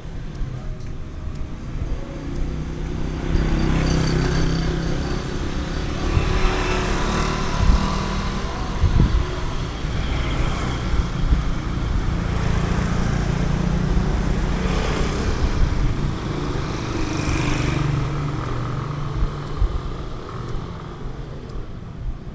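Road traffic: motor vehicles passing one after another, a steady engine rumble that swells and fades with each pass, about five times.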